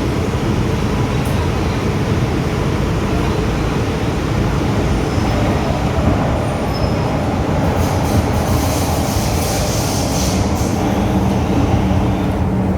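MTR M-train (Metro-Cammell electric multiple unit) running on the Tseung Kwan O line, heard on board: a steady rumble of wheels on rail and traction equipment. About eight seconds in, a higher hiss and screech joins it for two seconds or so.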